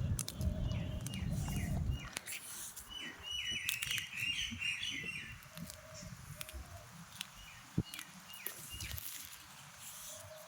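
A small bird chirping in quick runs of short high notes, twice, a few seconds apart. A low rumbling noise fills the first two seconds.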